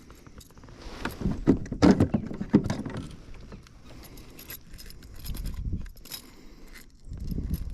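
Clattering, clicks and knocks of fishing gear being handled in a kayak, loudest about one to three seconds in.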